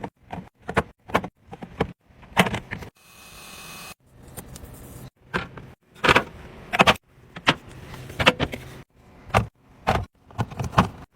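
Irregular clicks, taps and knocks of food containers and items being handled and set down while a refrigerator is restocked, with a short hiss about three seconds in.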